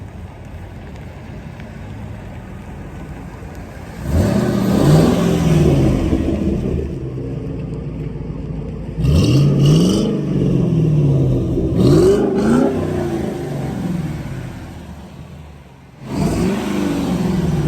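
2007 Ford Mustang GT's 4.6-litre V8 exhaust, running low and steady, then revved four times, the pitch climbing sharply and falling back each time.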